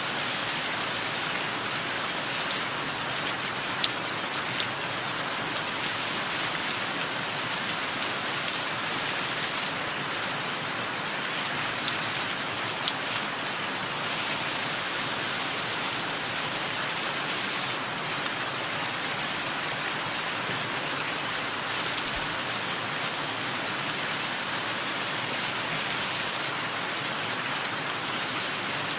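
Steady rain falling, with a bird giving short high chirps, mostly in quick pairs, every few seconds.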